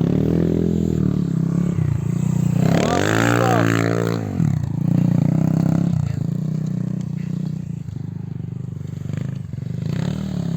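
Small dirt bike engine running, revved up and back down once about three seconds in, then running on at lower revs.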